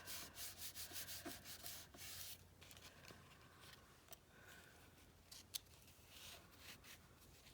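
Faint quick rubbing strokes on a paper page for about two seconds, then quieter with a few light taps and one sharp click, as texture is rubbed back off the journal page.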